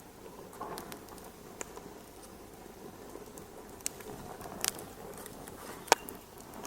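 Wood fire crackling in a fireplace: a low, steady rustle with scattered sharp pops, the loudest about six seconds in.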